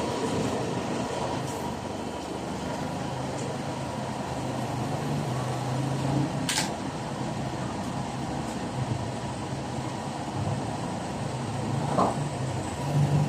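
Car engine idling steadily just after starting, with a low even hum. A sharp click comes about six and a half seconds in, and a knock about twelve seconds in.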